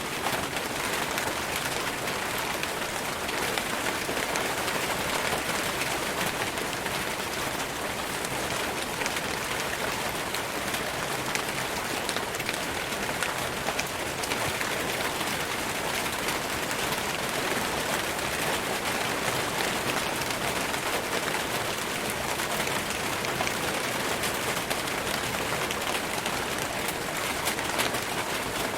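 Steady rain falling on forest leaves, a dense even hiss made of countless small drop patters, with no change in strength.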